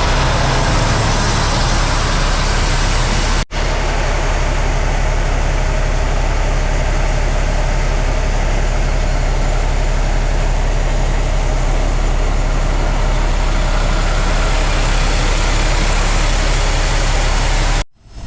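Dump truck's diesel engine idling steadily with a low hum. The sound cuts out briefly about three and a half seconds in and again near the end.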